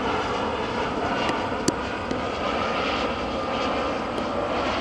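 Boeing 757-200 jet airliner on approach, its engines giving a steady rumble with a faint whine. A single sharp click just under two seconds in.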